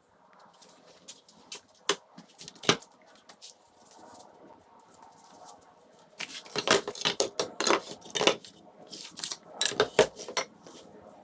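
Irregular knocking and clattering of hard objects being handled: a few separate sharp knocks in the first three seconds, then two busy runs of clatter starting about six and nine seconds in.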